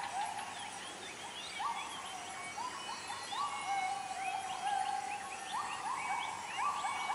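Bornean lowland rainforest dawn chorus: many birds chirping and whistling in short rising and falling notes, over a steady series of lower calls that sweep upward and repeat, closer together near the end.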